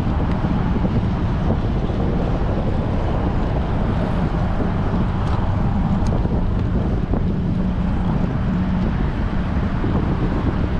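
Strong wind buffeting an action camera's microphone on a moving bicycle: a steady, loud low rumble with no let-up.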